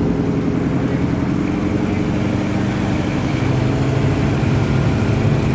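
Hot rod's engine running at low revs as it rolls out slowly, a steady low rumble with an even pulsing beat.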